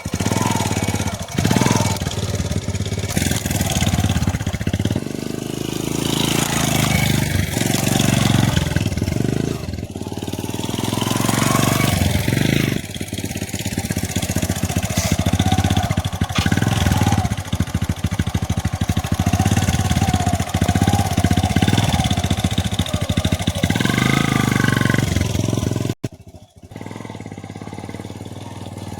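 Motorcycle engine running, its pitch rising and falling as it is revved. It drops off abruptly near the end to a quieter, steady run.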